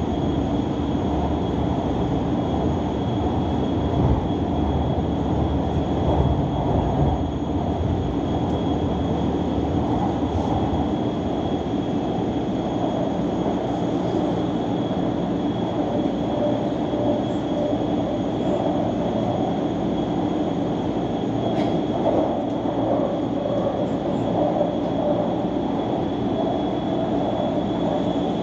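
CPTM Line 13 electric commuter train running steadily between stations, heard from inside the carriage: an even rumble of wheels on rail with a thin, steady high tone above it.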